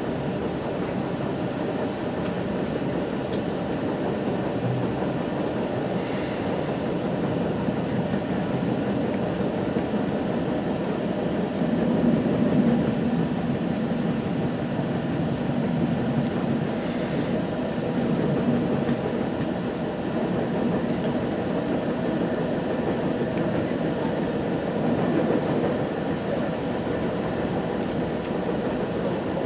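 West Coast Express commuter train running along the track, heard from inside a passenger car: a steady rumble of wheels on rail. Two brief faint clicks sound about a third of the way in and again past the middle.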